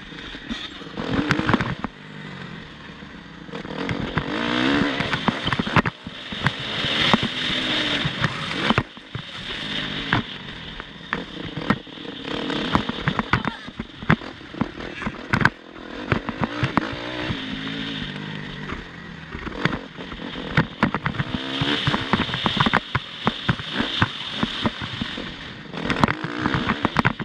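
Motocross bike engine revving up and down again and again as it is ridden hard, with many sharp knocks and crackles through it.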